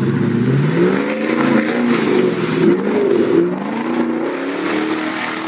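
Off-road 4x4's engine revving hard under load in deep mud ruts. Revs jump at the start, rise and fall repeatedly, then settle to a steadier drone near the end.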